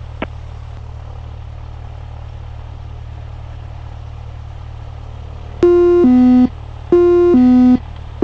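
Steady low drone of the aircraft through the cockpit audio, then a loud electronic two-note alert tone, a higher note followed by a lower one, sounding twice in the second half and starting again at the end.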